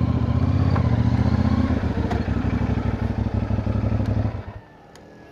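CFMoto 450NK motorcycle's parallel-twin engine running at low revs, then switched off about four seconds in.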